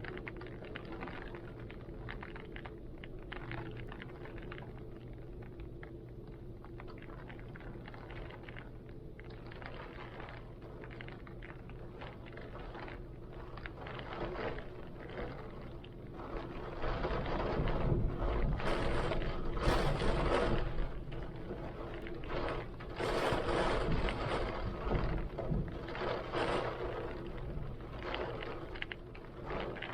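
Rain and heavy wind, blowing steadily with a low drone, then swelling louder in gusts about halfway through and again a few seconds later.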